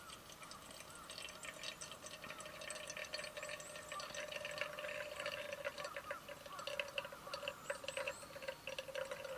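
Small birds chirping and twittering in quick, overlapping calls, over a steady tone that cuts off suddenly near the end.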